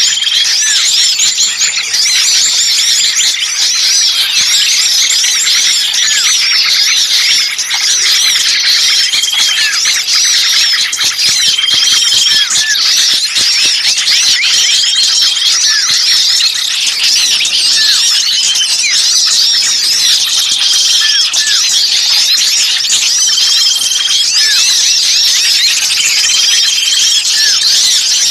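A dense, noisy chorus of small songbirds giving rapid high chirps and squeaks without pause, with a short level whistle recurring every second or two through the second half. It is a bird-lure recording of small birds calling in agitation as if caught ('kejepit'), meant to draw in other birds.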